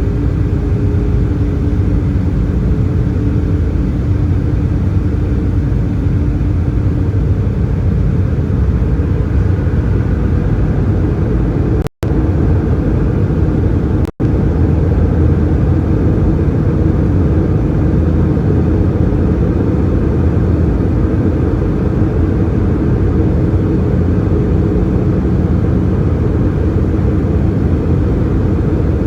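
Steady cabin noise inside an Airbus A320-214, heard from a window seat: a deep, even rumble of airflow and CFM56 engines. The sound cuts out briefly twice, about twelve seconds in and again two seconds later.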